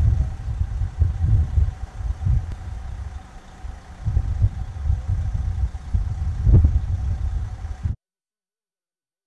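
An engine running steadily under a heavy, uneven low rumble; the sound cuts off suddenly about eight seconds in.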